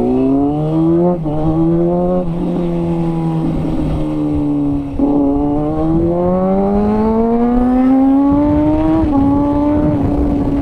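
Kawasaki ZX-6R sportbike's inline-four engine under way, revs climbing and dropping back at gear changes about a second and two seconds in, holding steady, then a long climb with another shift near the end, over wind rushing past.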